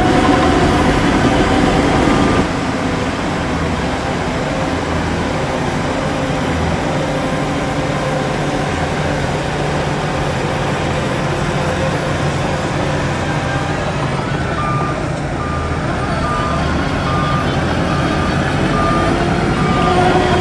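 Heavy diesel earthmoving machinery running steadily under load. A reversing alarm beeps at an even pace over the last third.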